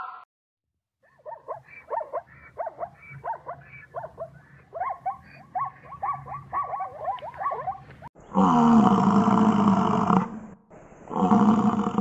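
Zebra calling: a long run of short, quick barking yelps, several a second. About eight seconds in it gives way to a bison's deep bellow, two long bellows with a short break between.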